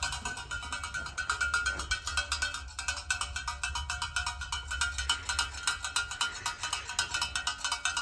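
A bell clanging rapidly and continuously, shaken to call the horses in.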